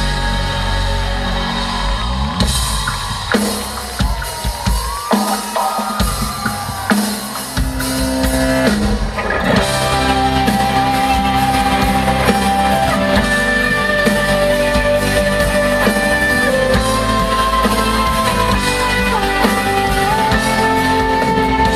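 Live band playing an instrumental passage without vocals: drum kit with fills and sliding lead notes in the first several seconds, settling into a steady full-band groove with a held melody from about nine seconds in.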